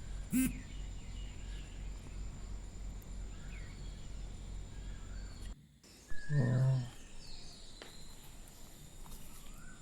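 Background room noise with a steady low hum and a faint high whine. Briefly interrupted by two short voice sounds: one just after the start and a stronger one about six and a half seconds in.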